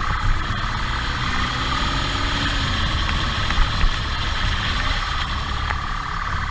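Motorcycle engine running steadily during a pursuit, with two short sharp knocks a little past halfway.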